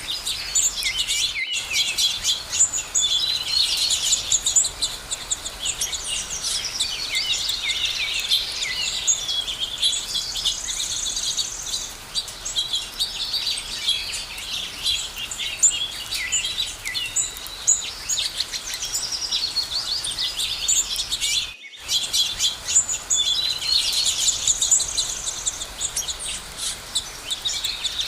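A chorus of many birds singing and chirping together, a dense overlapping run of high calls and trills. The sound drops out briefly twice, once early on and once about three-quarters of the way through.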